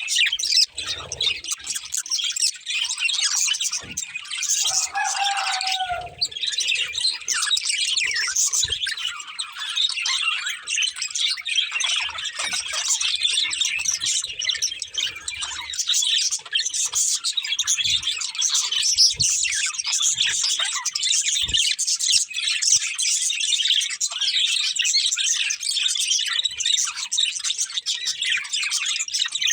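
A pair of budgerigars chirping and singing in a dense, high-pitched chatter that never lets up, with one lower, falling call about five seconds in.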